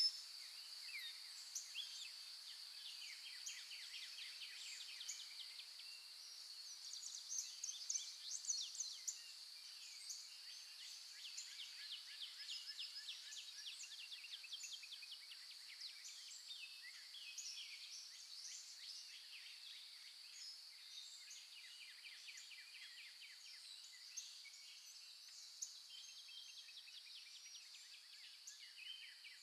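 Faint birds chirping and trilling over a steady high-pitched drone.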